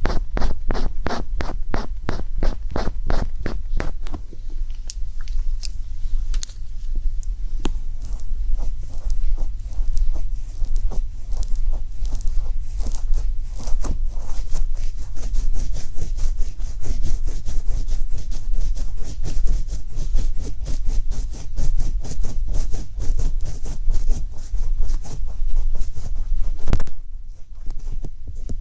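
Rapid scratching and tapping strokes, about five a second at first and quicker later, over a steady low hum, with a brief pause near the end.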